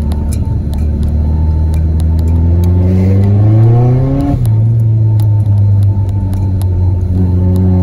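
Audi A3 1.8 turbo quattro's turbocharged four-cylinder engine heard from inside the cabin, pulling steadily, then revving up in rising pitch for about two seconds. The revs drop off suddenly just over four seconds in and the engine settles back to a steady drone.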